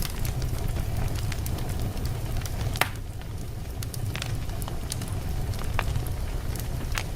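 Wood fire burning in a fireplace: logs crackling and popping at irregular moments over a steady low rumble of the flames. The sharpest pops come about three seconds in and near the end.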